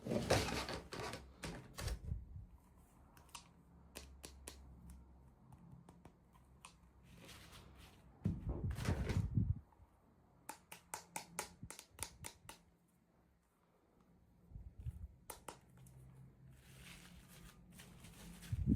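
Small plastic toy pieces and packaging being handled during an unboxing: scattered light clicks and taps, a quick run of ticks, and a louder rustle about eight seconds in.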